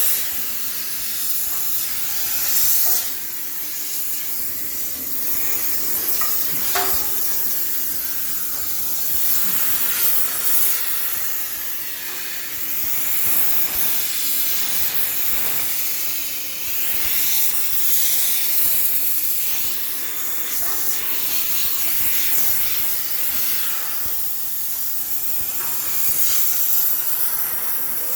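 High-pressure steam sterilizer jetting steam with a continuous loud hiss that swells and dips.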